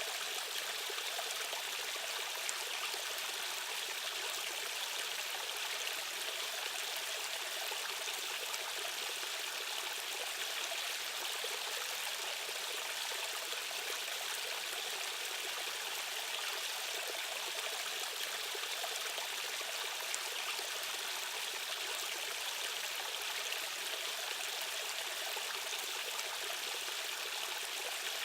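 Steady rushing of a stream's current, with small trickles and splashes.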